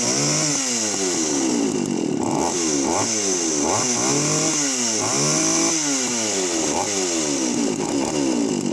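Late-1970s Poulan 3400 56cc two-stroke chainsaw running with its throttle blipped about once a second: the engine revs up sharply and falls back each time.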